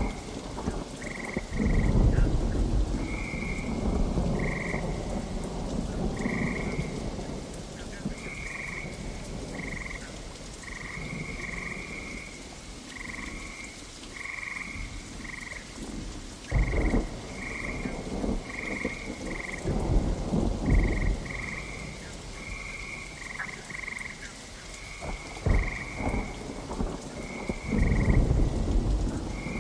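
Rain falling steadily with frogs croaking over it in a constant string of short, high calls, and low rolls of thunder several times.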